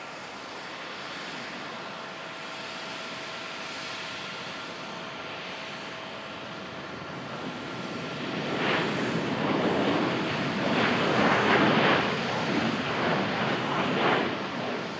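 Boeing 737-800's CFM56 jet engines during a landing: a steady jet whine with a thin high tone, which grows into a much louder, uneven roar a little past halfway and peaks twice before easing near the end.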